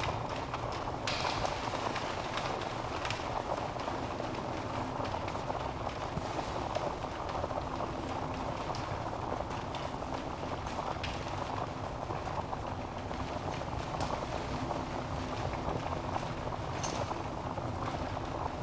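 Wood fire burning in a fireplace: a steady rush of flames with scattered sharp crackles and pops from the logs.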